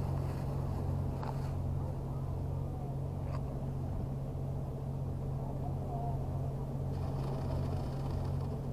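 An engine idling steadily, a low even hum, with a couple of faint clicks over it.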